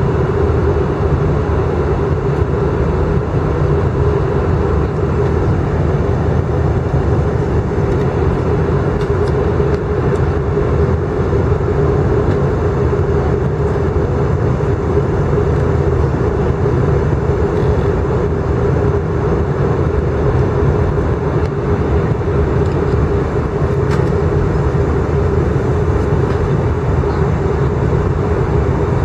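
Steady cabin noise of an Airbus A319 in flight: jet engine and airflow noise with a constant hum through it, unchanging throughout.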